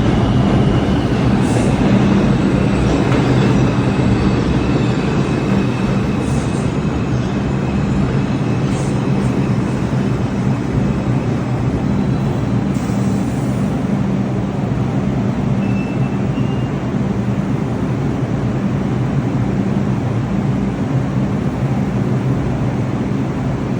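New York City subway train running: a steady rumble with a low hum, and a thin high whine that fades over the first several seconds. A few brief high-pitched sounds come in the first half.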